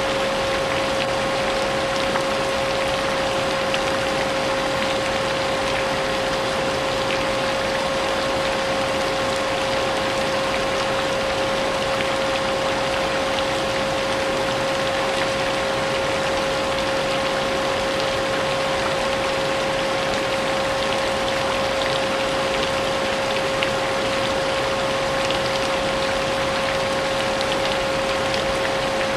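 A vacuum cleaner running steadily with a constant whine, mixed with the even hiss of rain.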